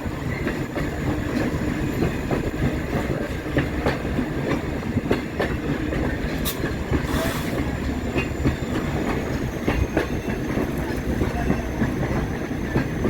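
Passenger train heard from an open coach right behind its EMD F40PHM-2 diesel locomotive: a steady low rumble with frequent irregular clicks of the wheels over the rails.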